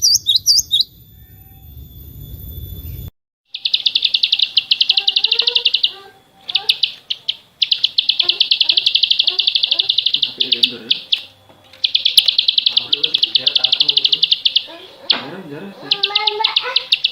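Recorded songbird calls. The first second holds a few high chirps, followed by a short stretch of low background noise. After an abrupt cut, a small bird sings rapid high trills in long runs of many notes a second, pausing briefly between runs, with softer lower chirps underneath.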